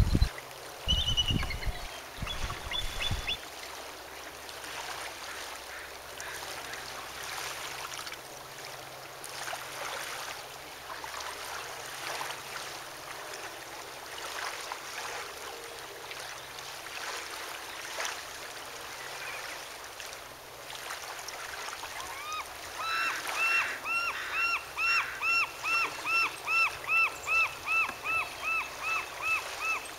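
A faint, even waterside wash, with low thumps in the first few seconds. About 22 seconds in, a bird starts a long run of clear, evenly repeated calls, two to three a second, for some seven seconds.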